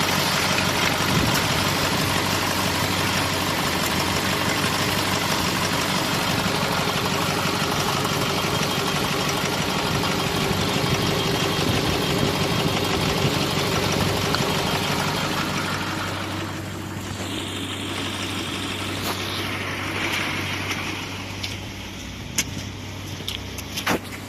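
Nissan Primera's YD22DDT 2.2-litre 16-valve four-cylinder turbodiesel running steadily. About two-thirds of the way through, the sound drops and thins, and a few sharp clicks come near the end.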